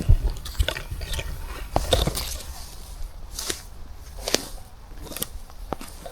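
Footsteps on a damp forest trail, irregular crunching and squelching steps roughly one a second over a low rumble.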